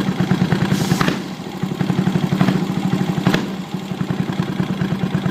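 Yamaha SR400's single-cylinder four-stroke engine idling on a Keihin FCR 41 flat-slide carburetor, with a quick, even pulse. Twice a short sharp click is heard, each followed by a brief drop in the engine's level.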